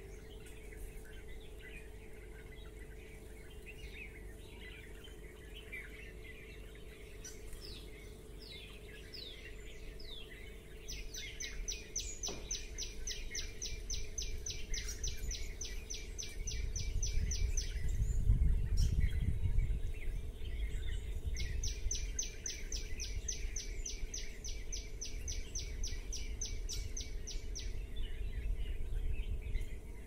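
Small birds chirping and calling, with two long runs of rapid, evenly repeated high notes, each about six seconds, one near the middle and one near the end. A low rumble swells for a few seconds around the middle.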